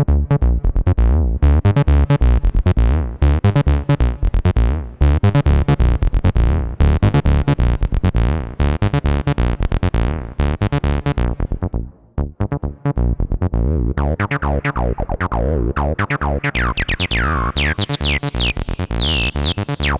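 Behringer TD-3-MO analog bass synthesizer playing a fast acid bassline sequence of short repeated notes. After a brief drop about two-thirds of the way in, the filter opens and each note carries a bright resonant sweep falling in pitch, strongest near the end.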